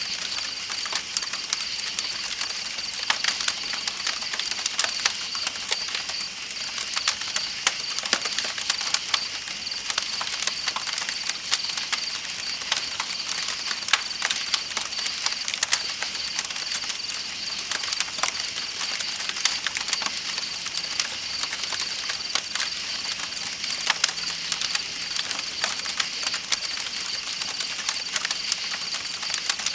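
Campfire crackling, with frequent sharp pops, over the steady rush of a flowing river and a constant high trilling of night insects.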